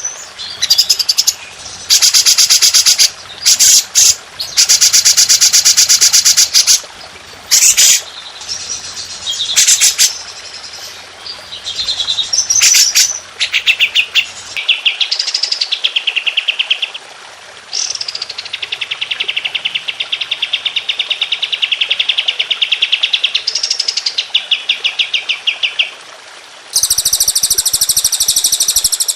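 Songbirds singing rapid-fire 'tembakan' trills, densely repeated notes fired in bursts of a second or two, then longer trills that start and end with a rising sweep, and a very high, dense trill near the end. This is a masteran recording of the kind played to train caged songbirds.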